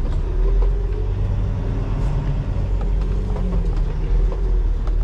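Semi-truck's diesel engine running at low speed, a steady low rumble with a faint hum above it, heard from inside the cab.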